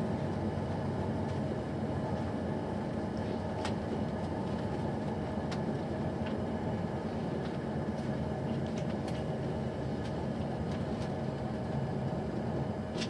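Class 222 Meridian diesel-electric multiple unit in motion, heard inside the passenger coach: a steady rumble with a low hum and a few light clicks scattered through it.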